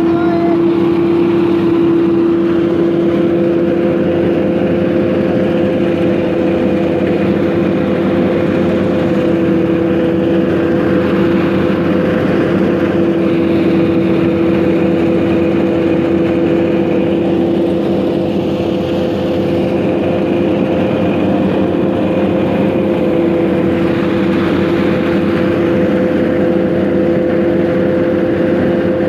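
A 480 tractor's engine driving a paddy thresher, both running steadily under load: a constant loud drone with an even, unchanging hum.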